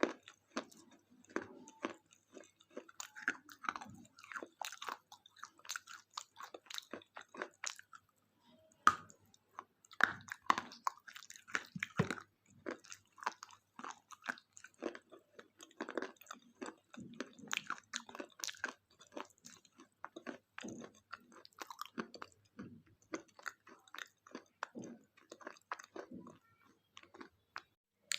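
A person chewing and crunching a thick KitKat chocolate wafer bar: dense, irregular small crunches and crackles, with a brief pause about eight seconds in.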